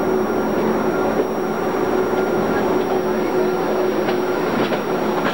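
Electric mountain train running, heard from inside the carriage: a steady rumble and hum with a few faint clicks from the running gear.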